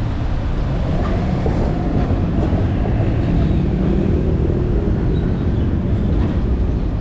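Steady, loud rumble of wind and road noise on a camera carried on a moving bicycle, heaviest in the low end.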